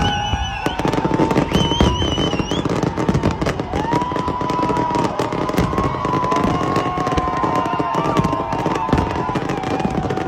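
Fireworks display: a dense, rapid run of crackling pops and bangs that goes on without letup.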